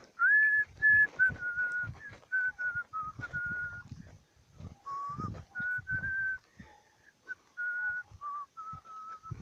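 A person whistling a slow tune of held notes that step up and down in pitch, with brief gaps between phrases. Low thuds sound underneath.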